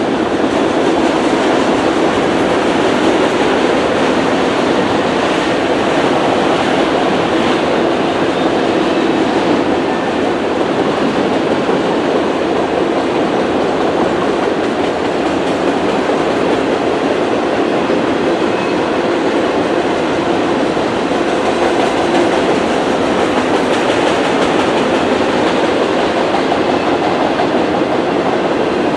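Freight train's multilevel autorack cars rolling past at a steady speed: a loud, continuous rolling noise of steel wheels on the rails.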